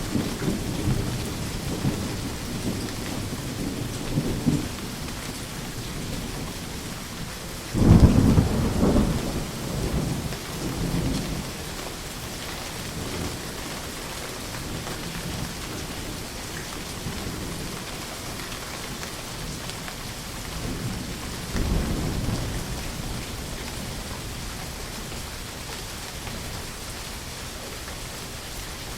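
Steady rain with rolling thunder. A rumble fades over the first few seconds, a sudden loud thunderclap about eight seconds in rumbles on for several seconds, and a softer peal comes about twenty-two seconds in.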